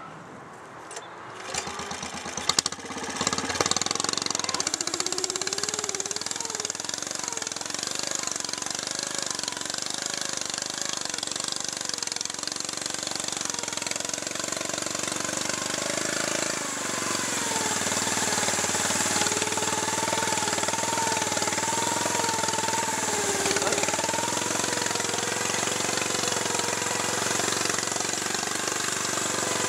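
A lawn tractor's small engine is cranked over and catches about three seconds in. It then runs steadily, its speed rising and falling slightly.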